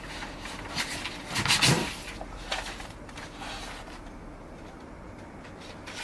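A few light knocks and scrapes from a plywood template being handled and shifted on a plywood workpiece, the loudest about one and a half seconds in, then quieter handling.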